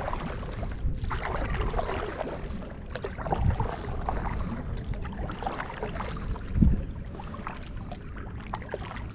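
Outdoor water and gear noise: a steady rustling hiss with scattered small clicks and knocks, and two low thumps, one about a third of the way in and one about two-thirds in.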